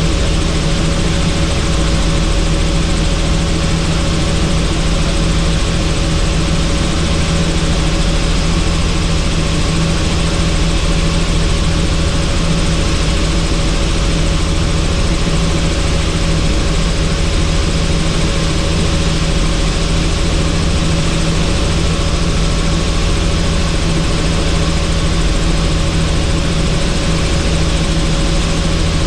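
Helicopter in steady flight: constant rotor and engine drone with a dense rush of wind noise, unchanging throughout.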